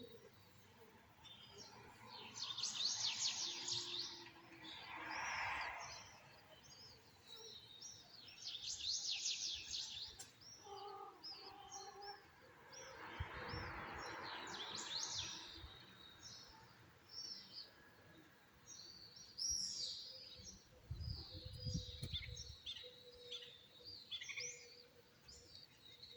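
Small songbirds chirping and singing, with many short high chirps and two rapid trills, each about a second and a half long.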